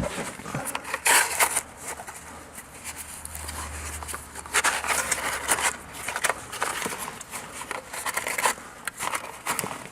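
Irregular scraping, rubbing and knocking of hands fitting an improvised hanger to hold up a car's exhaust, with a short low hum partway through.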